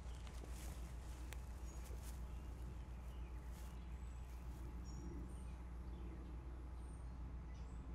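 Outdoor yard ambience: a steady low rumble, with a few short, high bird chirps scattered through the second half and some faint clicks near the start.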